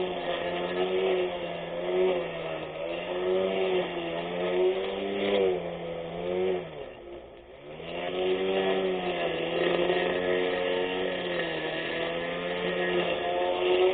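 24V brushless electric grass cutter running, its motor hum wavering in pitch; about halfway through it slows sharply and then winds back up to speed.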